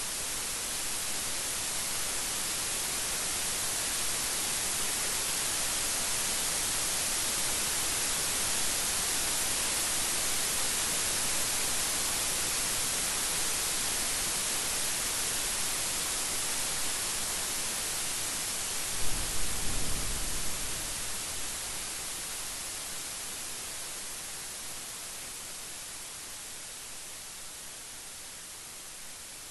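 Steady rain, a dense even hiss that swells a little and then fades toward the end. About two-thirds of the way in, a short thunder crack with a low rumble lasting about two seconds.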